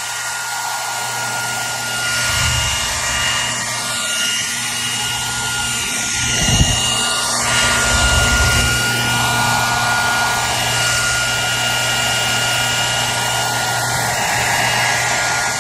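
Hair dryer running continuously: a steady rush of blown air with a constant motor hum and a thin whine, the air noise shifting slightly now and then. Used as soothing white noise for a crying baby.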